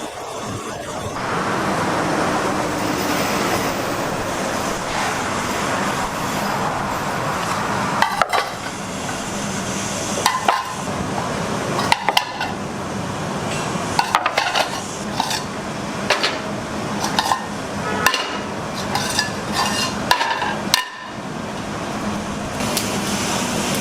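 Kitchen clatter: metal utensils and dishes clinking and knocking at irregular intervals over a steady rushing background noise.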